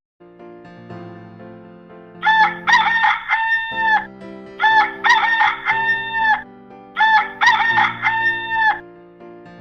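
A rooster crowing three times, each call a cock-a-doodle-doo ending in a long held note, over soft background music.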